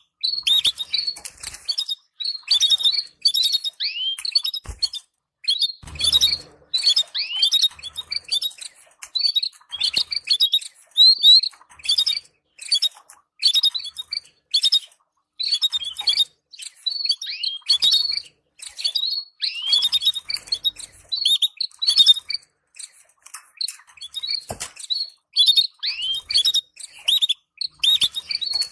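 Canaries giving quick runs of short, downward-sweeping chirps with brief pauses between runs: the chattering 'batbata' calls played to stimulate canary breeding pairs. A few soft thumps come in around the fifth, sixth and twenty-fifth seconds.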